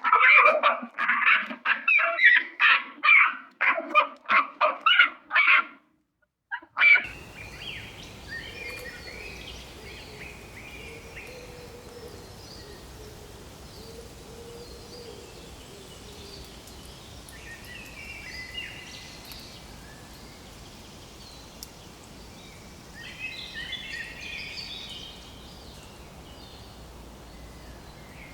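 An animal giving a rapid series of loud, pitched calls, several a second, which stops about six seconds in. After a brief silence comes steady outdoor ambience with scattered faint bird chirps, a little busier around the last third.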